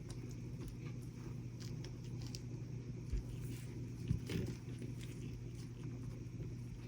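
Faint handling sounds of small cast resin succulent pieces being picked up and set onto a resin-coated gravel fill, with a few light taps, over a low steady hum.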